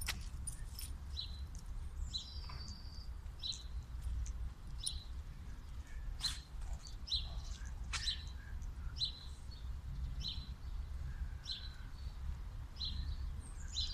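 Small birds chirping: a short chirp repeats about once a second, with a brief trill about two seconds in. A steady low rumble lies underneath.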